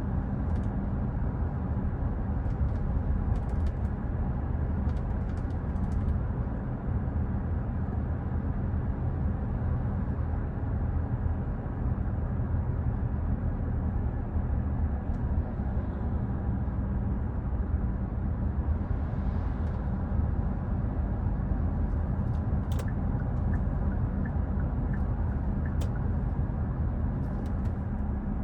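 Steady low rumble of a 2014 Hyundai Santa Fe driving through town: engine and tyre-on-road noise at an even level, with a few faint ticks in the last third.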